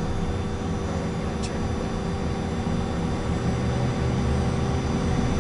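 Cessna Citation II's turbofan engines heard from the cockpit during start: number 1 spooling up just after light-off, with number 2 already running. A steady whine of several fixed tones over a low rumble, with one brief click about a second and a half in.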